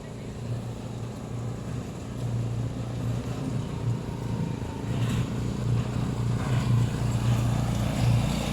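Train engine running with a steady low drone that grows gradually louder.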